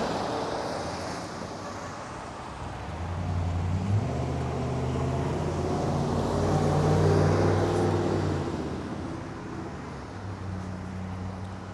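Car engine running, growing louder from about three seconds in to a peak near seven seconds, then easing back to a lower steady hum.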